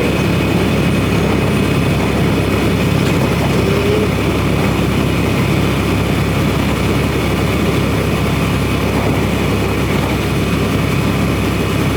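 Semi truck's engine and road noise heard steadily from inside the cab while it drives.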